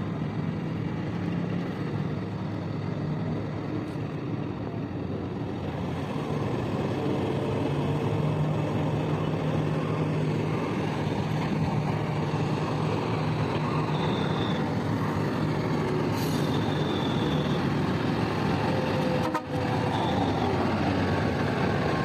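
Diesel engines of heavy mining machinery, a large loader and haul trucks, running steadily with a low drone. A few short high beeps sound in the second half.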